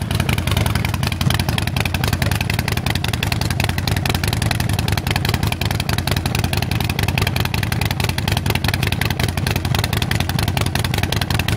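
Yamaha Super Ténéré 1200's parallel-twin engine running steadily, a dense, even pulsing with no clear rise or fall in revs.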